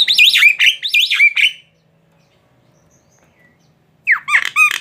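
Javan myna (jalak kebo) calling in full song: a quick run of loud, down-slurred whistled notes for about a second and a half, a pause, then another short burst of calls near the end.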